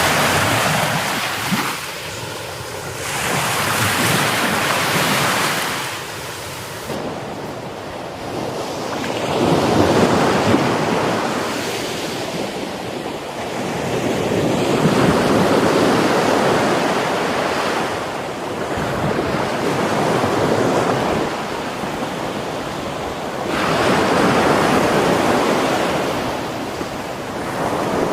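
Heavy sea surf breaking on a beach, the rush of water swelling and fading about every four to five seconds as each wave comes in.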